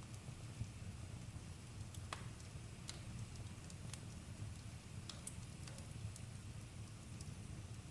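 Campfire crackling: irregular sharp pops roughly once a second over a steady low rumble.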